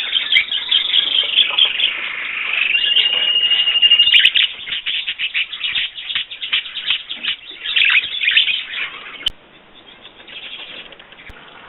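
Small pet bird chirping and warbling rapidly, with a steady held whistle note about three seconds in, then a run of quick short chirps; the sound drops away sharply past nine seconds.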